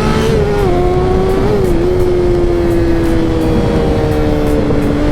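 Motorcycle engine running under way. Its pitch climbs slowly, dips briefly twice in the first couple of seconds, then sinks gradually as it eases off.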